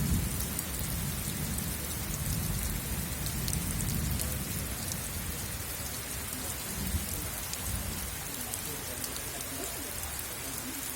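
Heavy rain falling steadily, with a low rumble underneath and the crackle of drops hitting nearby surfaces.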